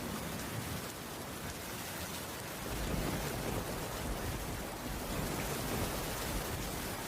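Heavy rain falling in a steady, even hiss, with a low rumble coming in about a third of the way through.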